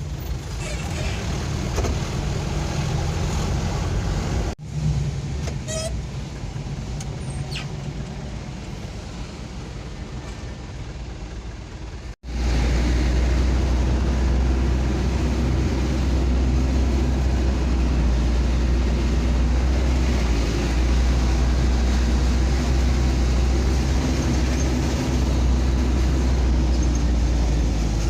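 Vehicle engine and road noise while driving, cutting out abruptly twice. After the second break a louder, steady low engine drone takes over.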